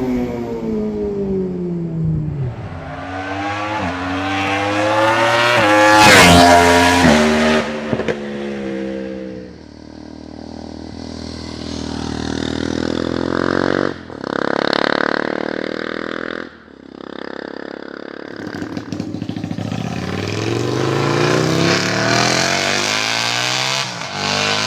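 Sport motorcycle engines revving through loud aftermarket exhausts in a run of short clips, pitch climbing and falling with each blip of the throttle. The loudest, sharpest rev comes about six seconds in. The sound changes abruptly several times as one bike gives way to another.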